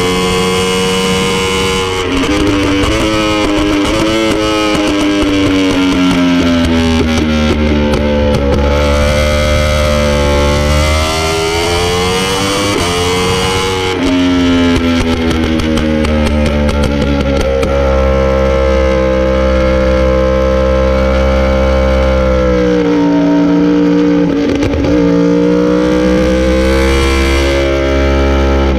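Motorcycle engine at speed, its pitch falling and rising repeatedly as it brakes, shifts and accelerates, with guitar music laid over it.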